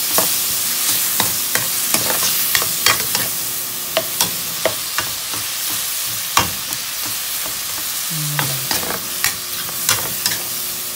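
Garlic, onions and tomatoes sizzling in hot oil in a wok, with a metal spoon stirring and scraping against the pan in irregular clicks and taps.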